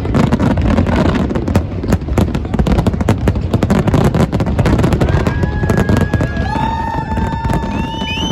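Fireworks going off in rapid succession, a dense run of bangs and crackles over a low rumble. From about five seconds in, several long high whistling tones join in, one dipping briefly in pitch near the end.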